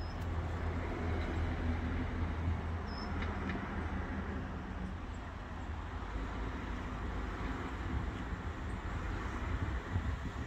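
Steady low rumble and hiss of an approaching Southern Class 377 electric multiple unit, heard from a distance, mixed with road traffic.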